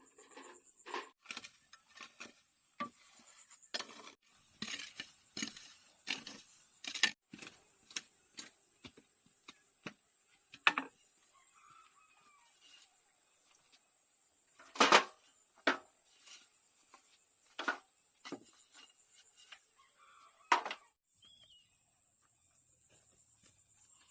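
Irregular knocks and clatters, a few much louder than the rest, with a couple of faint bird chirps between them.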